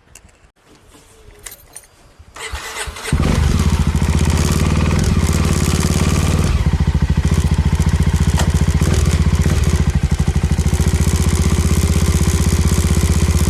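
Suzuki Thunder 250 motorcycle engine starting about three seconds in, then idling steadily.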